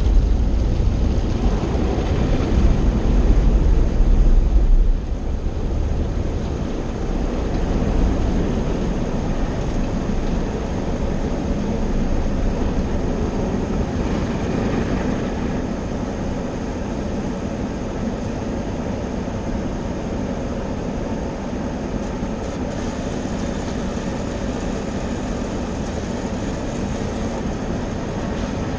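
Automatic car wash machinery running: a heavy low rumble for about the first five seconds, then a steadier, lower drone with a faint hum.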